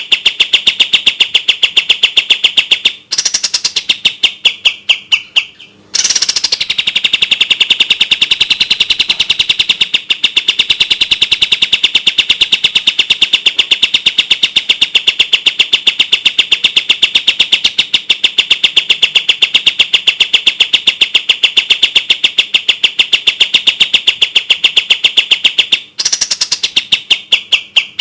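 Kapas tembak (olive-winged bulbul) giving its 'tembak' song: a clear, rapid, evenly repeated string of notes in long runs. The runs break off briefly about three seconds in and again near the end, the notes trailing off before each pause.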